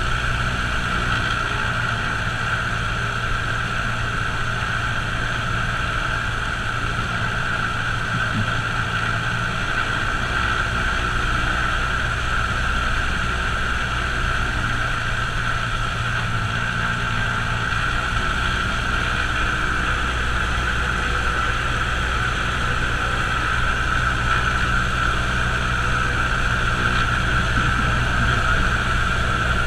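A Cessna light aircraft's piston engine and propeller running steadily as heard inside the cockpit. It is an even, unbroken drone with a low hum and a strong higher-pitched tone.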